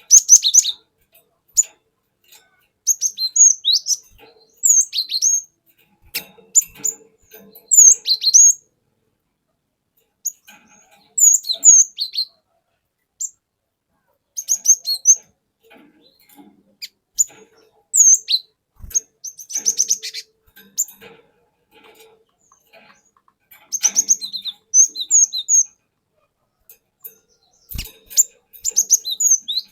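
Wild-caught cinereous tit (glatik batu) calling and singing in bouts of short, sharp, high whistled notes, each bout a quick string of chirps, with pauses of a second or two between bouts.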